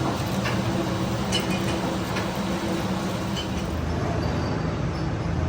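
Steady machine hum with a few short knocks in the first couple of seconds.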